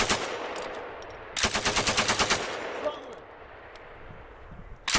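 Belt-fed machine gun fire in short bursts: the tail of one burst right at the start, a full burst of about ten rapid shots around a second and a half in, and another burst starting at the very end, each trailing off in an echo across the range.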